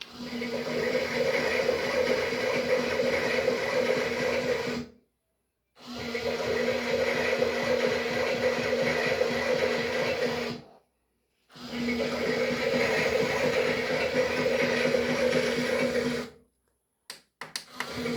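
Small electric motor of a toy washing machine running with a steady hum, in three stretches that each cut off abruptly into silence.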